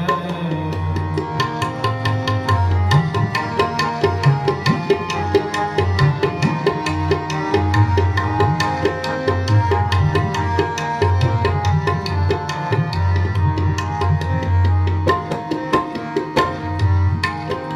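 Tabla playing an instrumental interlude of Sikh kirtan: quick, sharp strokes many times a second over deep, ringing bass strokes, with sustained melody notes held above them.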